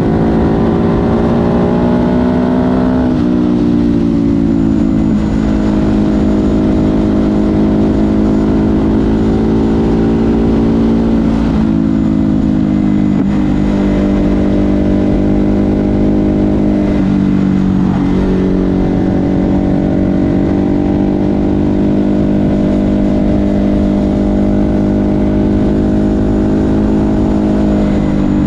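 Ducati Hypermotard 950 SP's 937 cc L-twin engine through an SC Project aftermarket exhaust, heard loud while riding. The engine note holds fairly steady, then drops sharply in pitch about half a dozen times as the rider changes gear or rolls off the throttle through the bends.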